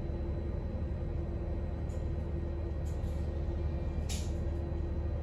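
Running sound inside the car of an Abukuma Express AB900 series electric train at steady speed: a constant low rumble of the wheels on the rails with a steady hum, and a few brief high clicks, the clearest about four seconds in.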